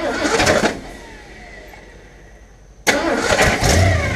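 Ford 460 big-block V8 cranked and firing for under a second before dying away, then cranked again about three seconds in and catching, settling into a steady idle near the end. The ignition timing is still off.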